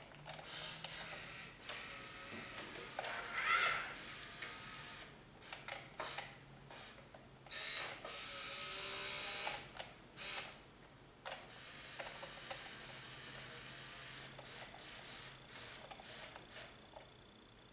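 Small electric motors and gears of a 1/14-scale Hobby Engine RC log loader whirring in short stop-start bursts as it is driven and operated.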